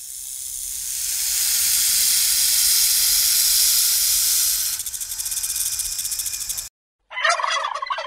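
An animal's long hiss that grows louder over a few seconds and breaks into a fast rattling pulse near the end, then stops abruptly. A short pitched call follows about seven seconds in.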